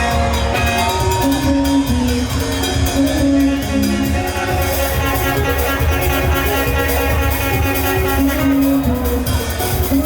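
Live band music playing loudly, with a heavy bass line, a steady drum beat and long held melodic notes over it.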